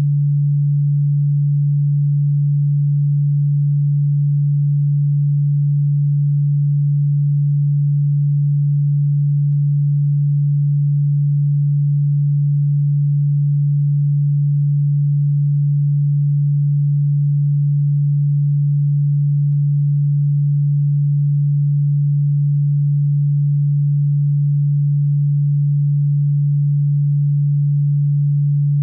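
A single steady, low electronic sine tone, pitched around 150 Hz, holding one unchanging note.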